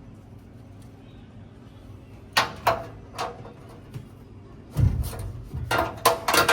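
Hand wrench clinking and knocking against the metal blower housing and fasteners: a few sharp clinks about two and a half seconds in, then a burst of clattering metal knocks near the end.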